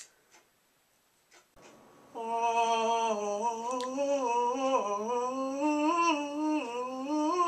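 A person humming a slow, wavering tune without a break, starting about two seconds in after a couple of faint clicks.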